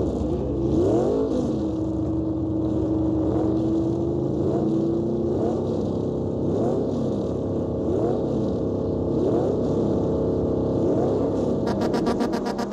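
Dubbed car engine sound revving over and over, about once a second, with a long steady tone held through the first few seconds. Rhythmic music comes in near the end.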